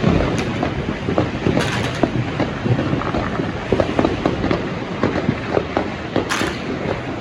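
Dense, continuous popping and crackling of many firecrackers and fireworks going off at once across a city. A couple of sharper cracks stand out, one early and one near the end.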